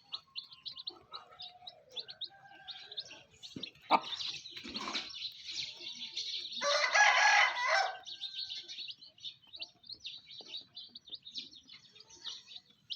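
Baby chicks peeping over and over in quick, high chirps, with a hen's lower calls among them. About seven seconds in, an adult chicken gives a louder drawn-out call lasting a little over a second, and there is a single sharp knock about four seconds in.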